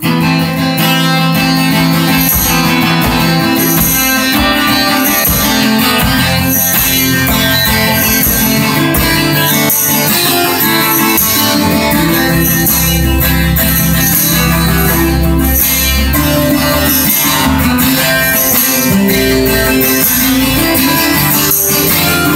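A band playing a song's instrumental introduction, led by guitars, before the vocals come in.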